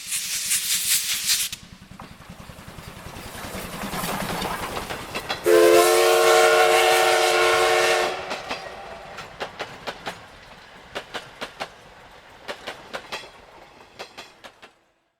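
Steam locomotive: a burst of steam hiss, then rhythmic chuffing that builds, a long whistle blast about five and a half seconds in lasting over two seconds, then wheel clicks over rail joints that fade and thin out.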